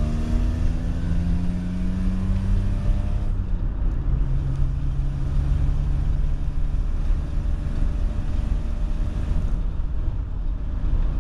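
Geo Metro's freshly swapped engine pulling in fourth gear, heard from inside the cabin over low road rumble. Its note climbs steadily for about three seconds, drops briefly, then rises again and holds steady.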